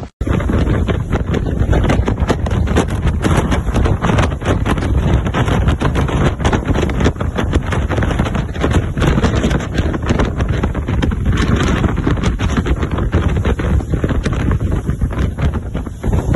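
Strong wind buffeting the microphone: a loud, steady rumbling rush with constant rapid flutter.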